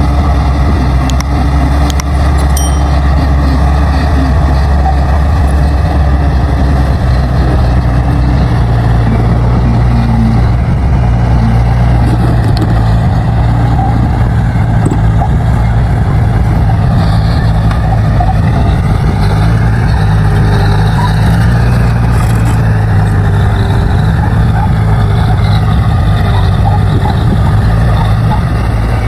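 Diesel engine of a D60 crawler bulldozer running loud and steady while pushing soil. Its pitch dips and rises in the middle as the load changes.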